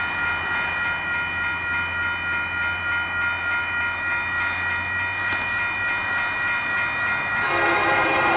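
Union Pacific unit train approaching: a steady low rumble under a sustained, high-pitched tone that holds its pitch. It grows louder about seven and a half seconds in, as lower tones join it.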